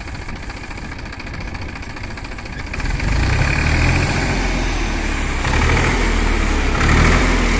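New Holland 47 HP tractor's diesel engine running with an even beat, described as smooth. About three seconds in it grows louder, with a heavier low rumble.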